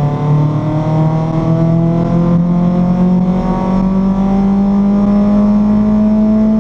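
Renault Clio RS's 2.0-litre four-cylinder engine accelerating hard in one gear, its note rising steadily in pitch.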